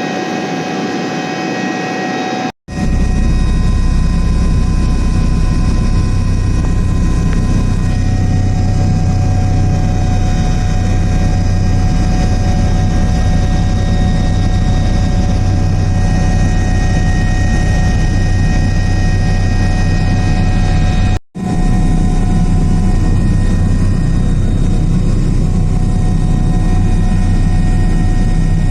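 Airbus H145 twin-turbine helicopter running steadily in flight: a low rotor and engine rumble under a steady turbine whine. It cuts out twice, briefly.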